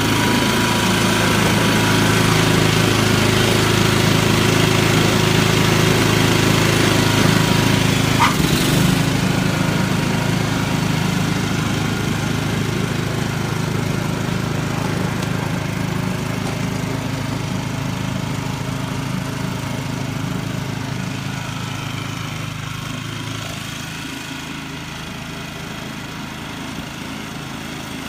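A small engine running steadily, growing gradually fainter through the second half.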